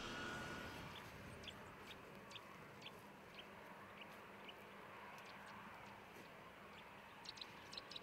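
Faint open-air background with a small bird giving short, sharp chirps about every half second, then a quick run of chirps near the end.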